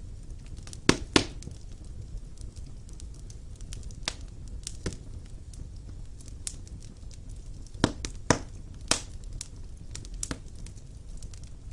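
Wood fire burning in a fireplace: a low steady rumble of flame with irregular sharp crackles and pops, two loud pops about a second in and more near the end.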